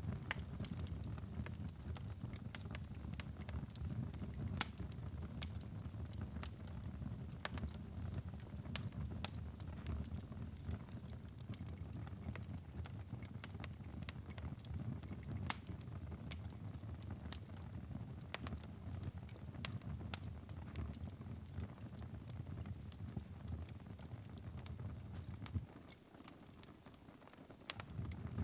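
Fire burning in a fireplace: a steady low rumble of flames with frequent sharp crackles and pops scattered throughout. The low rumble dips for a couple of seconds near the end while the crackling goes on.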